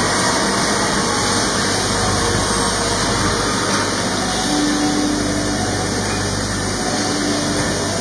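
Pipe-bending machine running: a steady mechanical hum and noise with a low drone, with short steady tones coming in around the middle and again near the end.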